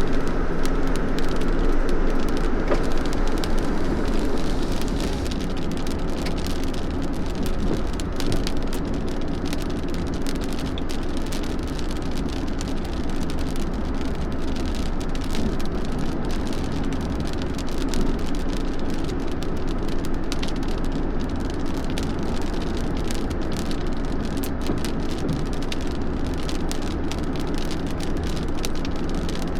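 Steady rain falling, with scattered raindrop ticks, over the low running noise of a vehicle.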